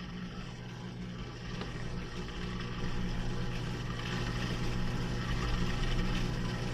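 Washing machine running mid-cycle, its motor giving a steady hum that grows louder about three seconds in.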